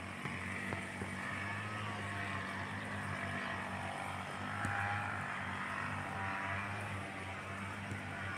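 Steady low engine hum of vehicles idling, with faint wavering higher tones above it.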